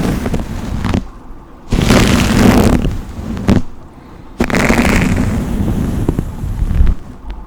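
Slow brush strokes close to the microphone, several in a row, each about one to two and a half seconds long, with short pauses between.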